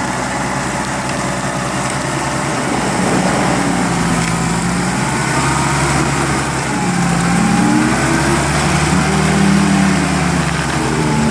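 Off-road vehicle engine running under load, its revs swelling up and down several times in the second half. According to the uploader, the low-range gear has popped out and the vehicle has dug itself in.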